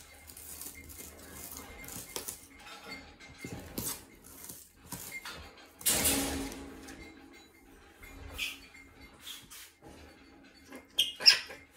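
Scattered clicks, knocks and light clatter of household things being handled while cleaning a bird room. There is a louder rushing noise about six seconds in that lasts about a second, and a few sharp clicks near the end.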